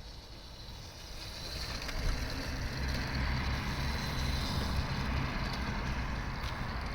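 EBOX Stomp 2.0 kids' brushless electric dirt bike (60 V, 2000 W) riding past, its motor whining high with tyre noise on dirt, growing louder over the first couple of seconds and then holding steady.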